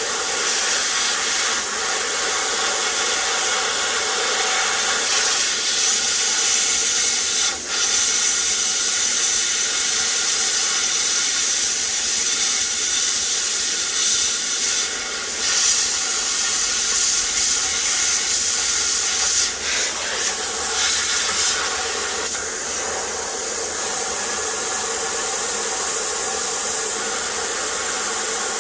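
Plasma cutter hissing steadily as it cuts through an oil pan, with a few brief breaks in the hiss.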